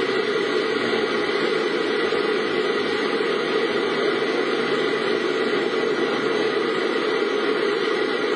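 Steady vehicle noise from inside a car on the move: engine and road noise as an even, constant hiss.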